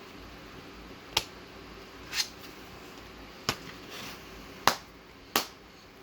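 Five short, sharp clicks at uneven intervals over a faint steady hiss.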